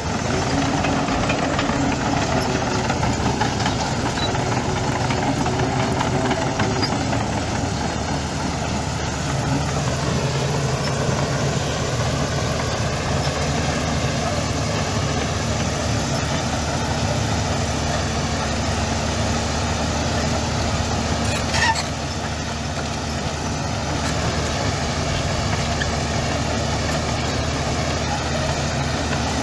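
Heavy diesel engines of earthmoving machinery running steadily, the engine note shifting now and then, with one brief sharp sound about three-quarters of the way through.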